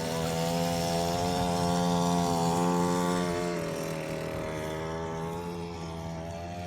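A power tool's motor running at a steady high speed, its pitch dipping slightly about three and a half seconds in as it takes load.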